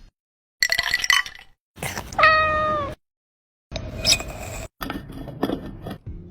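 A domestic cat meowing once, about two seconds in, a single call held for most of a second with its pitch dipping slightly at the end. Short clips on either side, broken by sudden silent cuts, carry brief clicks and knocks.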